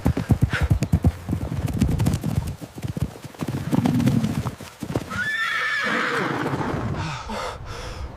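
Horse hooves clip-clopping at a quick pace, then a horse whinnying about five seconds in, a wavering call that lasts a couple of seconds.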